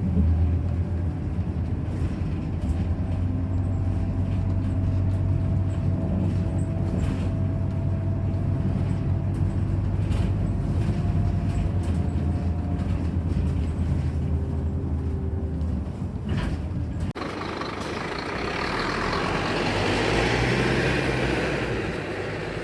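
Scania Citywide ethanol bus engine running with a steady low drone. About seventeen seconds in the drone drops away abruptly and a loud hiss swells, then fades.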